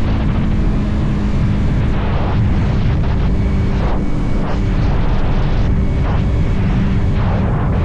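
Motorcycle engine running at a steady cruising pitch under heavy wind rush on the microphone. The engine tone breaks off briefly a few times.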